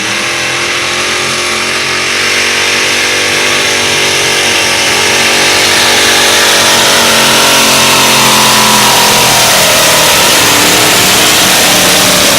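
Modified pulling tractor's engine running at high revs under load, growing louder over the first couple of seconds and then staying very loud, its pitch wavering in the last few seconds.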